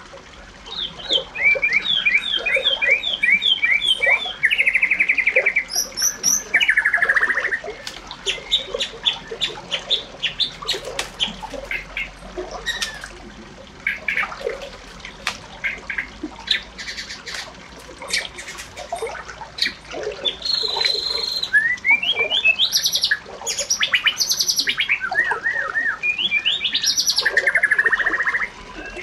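Birds singing and calling in varied phrases: fast runs of repeated notes and buzzy trills, broken by short pauses.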